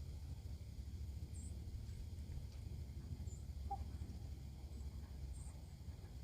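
Quiet outdoor ambience by the water: a low steady rumble with a few faint high chirps, and one faint short call a little under four seconds in.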